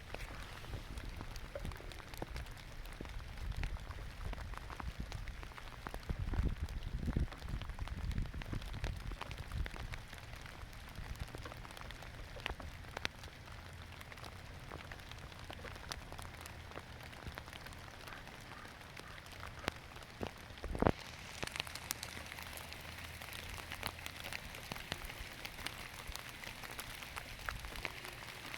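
Rain falling on lettuce leaves: a steady patter with many single drops ticking. A little past two-thirds of the way in there is one loud knock, and after it the rain's hiss is brighter.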